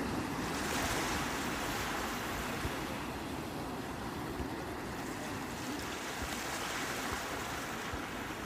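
Sea waves washing onto the shore, a steady hiss of surf with two gentle swells as waves break, one about a second in and another around six seconds in, over a low rumble.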